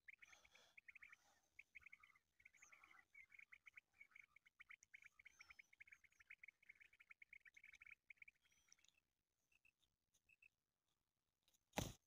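Faint bird chirping: a fast run of short high chirps, thinning out to a few scattered ones. A short sharp thump comes near the end.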